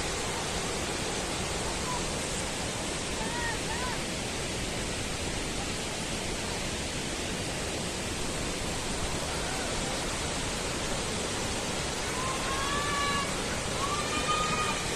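Waterfall's steady rushing noise, even and unbroken.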